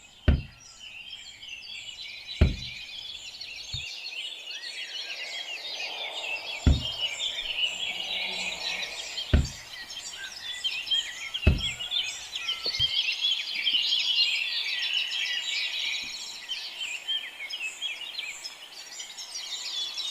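Many small birds chirping continuously in a dense chorus, with several sharp knocks spread through the first half.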